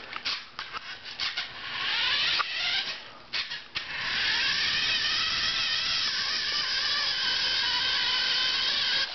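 Motor and gears of a remote-control monster truck whining, in several short bursts and then running steadily for about five seconds.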